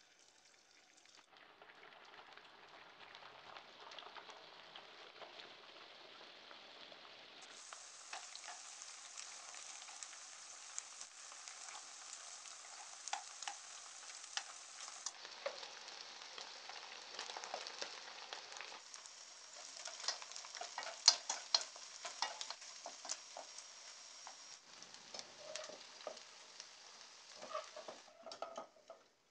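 Marinated chicken strips frying in hot oil in a wok, a steady sizzle with many small pops and clicks as metal utensils stir the pieces against the pan. The sizzle falls away near the end as the chicken is lifted out.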